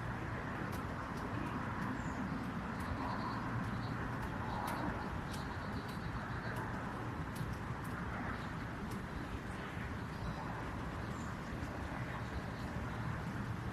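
Outdoor ambience: a steady low hum of background noise with faint, scattered bird chirps.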